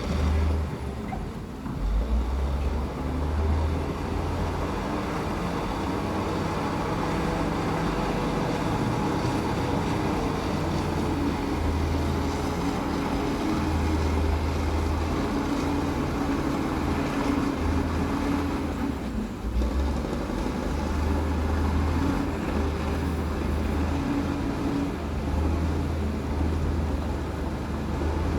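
Bulldozer's diesel engine running steadily under load with a deep rumble, easing off briefly about two-thirds of the way through.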